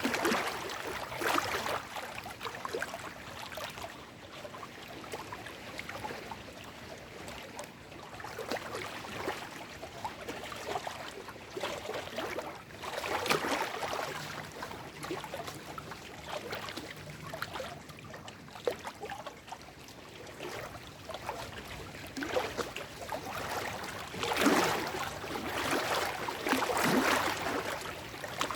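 Small lake waves washing and sloshing over shoreline rocks, in surges every few seconds, with gurgling and splashing among the stones.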